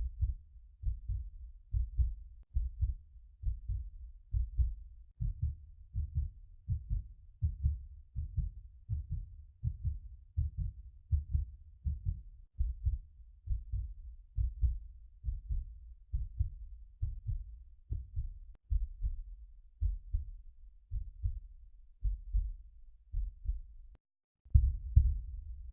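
Heartbeat sound effect: a steady run of low, dull thumps, about one and a half a second. It breaks off briefly near the end, then comes back louder.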